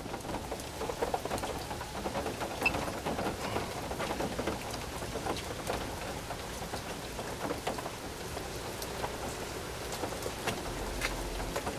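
Steady hurricane rain falling, with many small drops ticking on a nearby surface.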